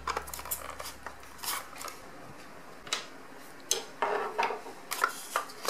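Small clicks, clinks and brief scraping of metal and plastic parts being handled as a refrigerator's thermostat (temperature control switch) is taken out of its housing.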